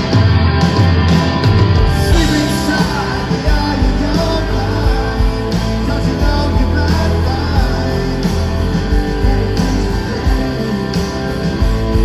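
Live rock band playing over a concert sound system, with guitars and heavy bass, and singing.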